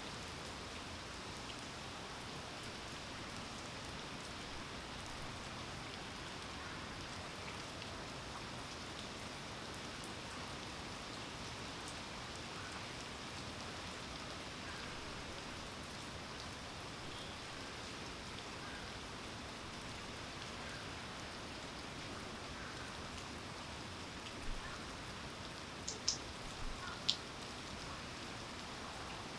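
Steady rain falling, an even hiss of drops on surfaces, with a few louder single drops ticking near the end.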